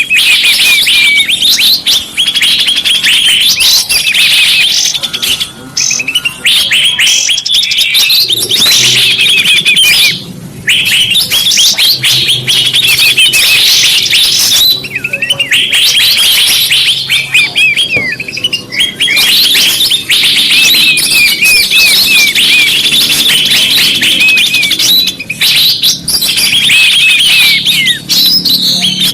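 A bird-luring (pikat) recording: a dense chorus of many small birds chirping and twittering in quick runs of high, sweeping notes, broken by a few short pauses.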